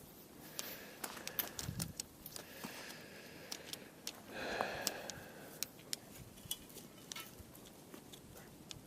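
Scattered light clicks and clinks of tent gear being handled while a tent is pitched, with a brief rustle about halfway through.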